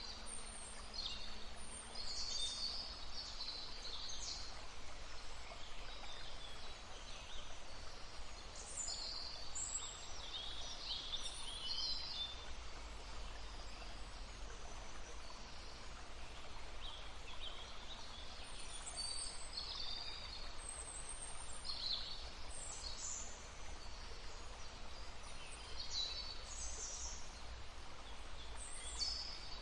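Songbirds singing and calling in short high phrases that come and go, over the steady murmur of a brook.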